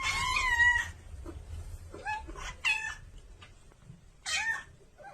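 Cat meowing about five times, a longer call at the start followed by shorter ones.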